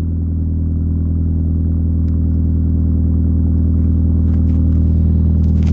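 1999 Saturn SL2's 1.9-litre four-cylinder engine idling after a cold start in snow, its exhaust through an aftermarket Evil Energy muffler giving a steady low drone that grows slowly louder.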